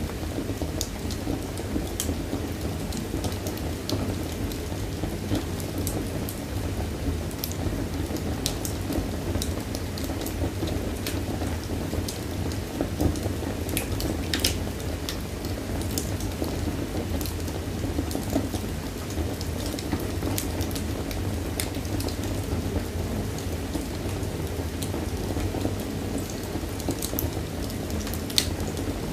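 Wood fire in a fireplace burning with a steady low rumble, scattered sharp crackles and pops, one louder pop about halfway through.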